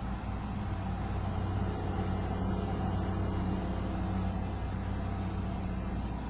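Steady low rumble of distant late-night traffic, with the high-pitched ringing of the camera's own hard drive picked up by its microphone; the ringing steps up in pitch about a second in and drops back a little before the four-second mark.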